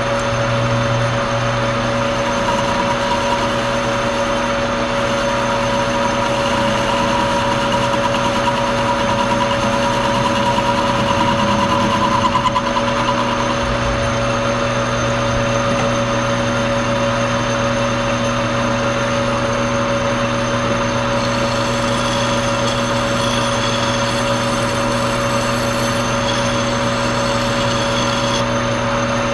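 Old Monarch engine lathe running steadily under power with a constant gear-train whine, turning a 1018 mild-steel part. A fainter, higher singing tone from the cut runs through the first half and fades out about twelve seconds in. The lathe shuts off right at the end.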